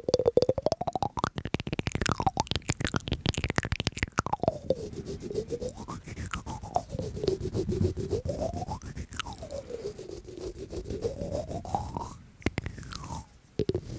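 Close-up crunchy chewing: a fast, dense run of crackling crunches, thickest in the first few seconds. Behind it a separate tone swoops down and back up again and again.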